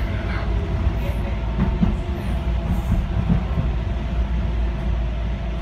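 Docklands Light Railway train running, heard from inside the car: a steady low rumble of wheels on rail with a faint motor hum and occasional light clicks from the track.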